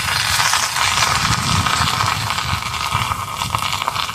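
Fire burning in a small barbecue pit, heard as a steady rushing noise over an uneven low rumble.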